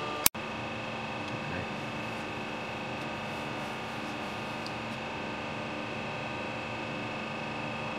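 Böhringer NG200 CNC lathe running: a steady machine hum with several steady tones, one of them pulsing on and off. A single sharp click about a quarter second in.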